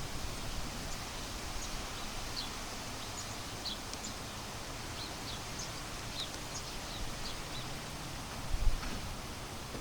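Wind blowing steadily through leaves, with many short, high bird chirps scattered throughout. A gust buffets the microphone with a low rumble near the end.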